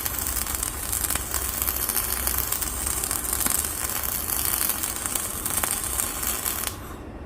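Electric arc welding: a steady, crackling sizzle as a bead is laid to fix the hydraulic cylinder's mount in place. It cuts off near the end.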